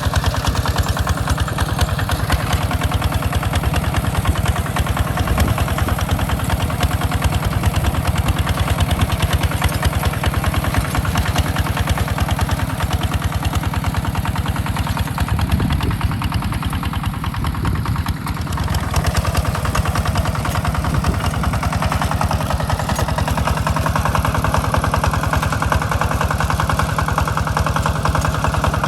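A two-wheel walking tractor (power tiller) engine running steadily while plowing a rice field, with a rapid, even chug. It dips briefly a little past the middle, then carries on.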